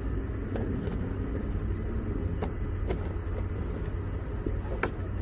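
A vehicle engine running at idle, a steady low rumble, with a few sharp clicks and knocks over it, the loudest near the end.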